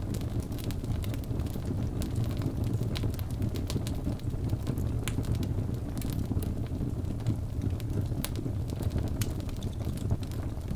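Wood logs burning in a fireplace: a steady low rumble of the flames with frequent small, sharp crackles and pops scattered throughout.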